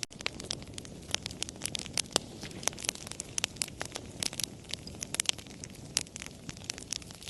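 A fire crackling: frequent, irregular sharp pops and snaps over a low, steady rush of burning.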